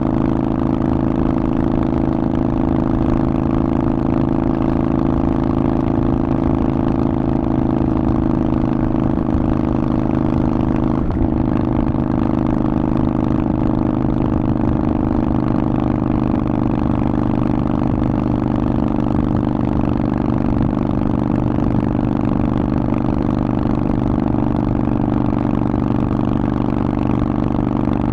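Harley-Davidson Forty-Eight's air-cooled V-twin running through a Vance & Hines exhaust, held at a steady engine speed while riding. The tone changes briefly about eleven seconds in.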